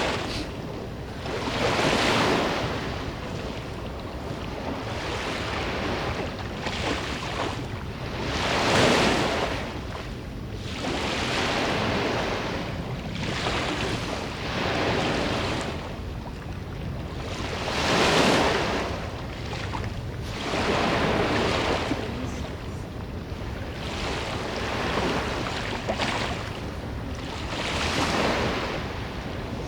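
Strong seaside wind and surf: swells of rushing noise that rise and fade every few seconds over a steady low rumble of wind on the microphone.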